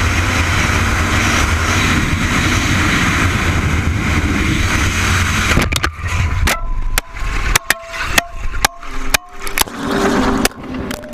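Motorcycle engine and wind noise while riding. From about six seconds in, the steady noise breaks up into a string of sharp knocks and clatters.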